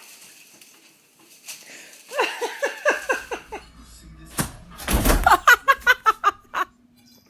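Person laughing in short repeated bursts, then a sudden loud thump about four and a half seconds in, followed by a quicker, higher-pitched run of laughter.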